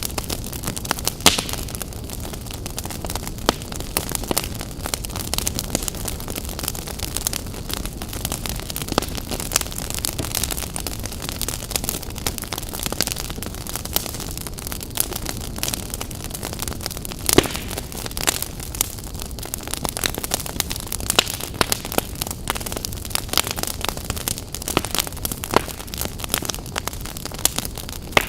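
Wood fire crackling, with a steady hiss of burning and frequent sharp pops, a few of them louder.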